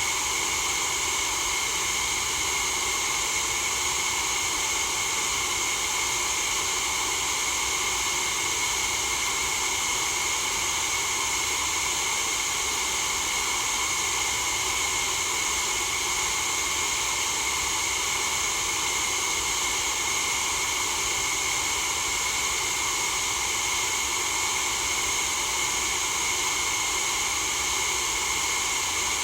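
Steady white-noise hiss at an unchanging level, bright and hissy with most of its energy in the upper range and little low rumble.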